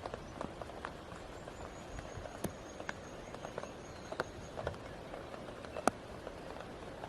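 Steady hiss of rain with scattered drops tapping irregularly, one sharper tap near the end.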